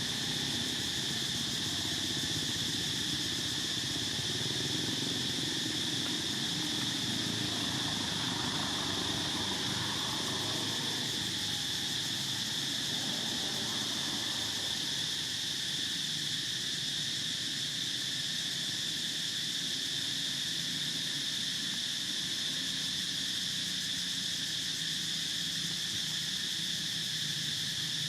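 Steady insect chorus: a continuous high-pitched buzzing drone that holds level throughout, with a faint low background rumble in the first half.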